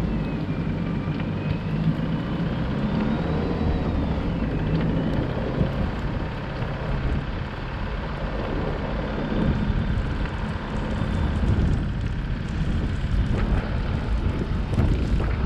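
Car driving in a snowstorm: a steady low rumble of engine and road noise mixed with wind. A thin whistle rises and falls in pitch over the first few seconds.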